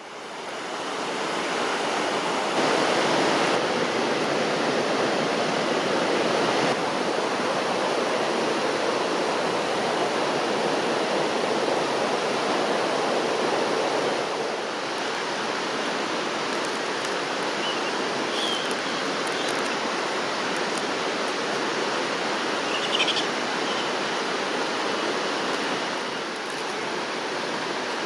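Steady rushing water of a mountain stream, even and unbroken, with two brief faint high chirps in the second half.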